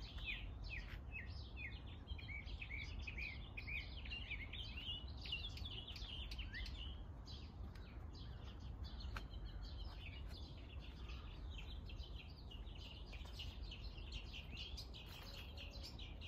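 Small birds chirping and twittering, many short quick chirps overlapping, a little sparser around the middle, over a steady low rumble.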